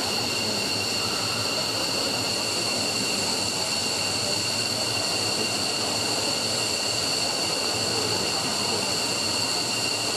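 F-15's turbofan jet engines running steadily during a ground run: a steady rush with a high, multi-tone whine on top.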